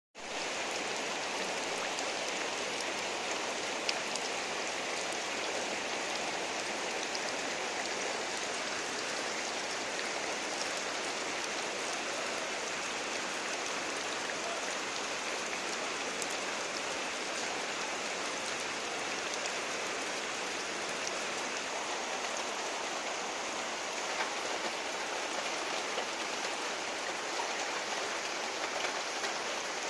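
Heavy rain pouring down steadily: a dense, even hiss with scattered drop ticks.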